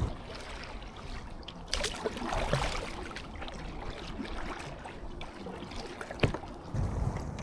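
Kayak paddling: water splashing and trickling from a paddle stroke about two seconds in, and a single sharp knock near the end. Low wind rumble on the microphone comes back near the end.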